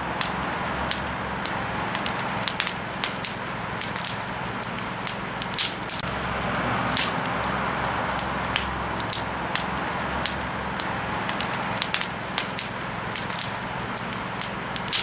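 Campfire crackling: wood burning with frequent irregular sharp pops and snaps over a steady hiss of flame.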